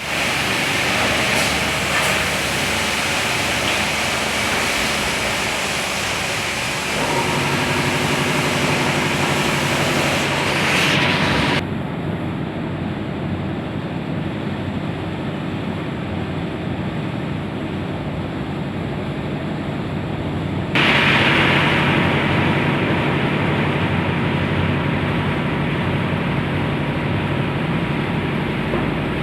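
Automatic car wash machinery running. A hiss of water spray cuts off suddenly about twelve seconds in and comes back just as suddenly about nine seconds later. Under it, a steady motor hum sets in about seven seconds in.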